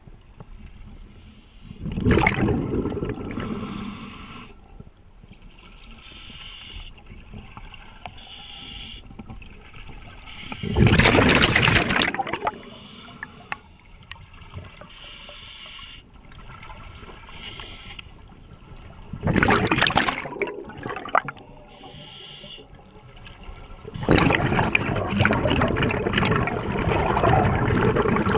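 Scuba diver breathing through a regulator underwater: four loud gurgling bursts of exhaled bubbles several seconds apart, the last one longer, with faint hisses of inhalation between them.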